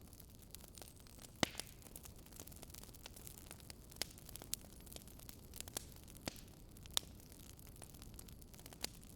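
Wood fire crackling: irregular sharp pops, about seven of them, over a faint steady hiss.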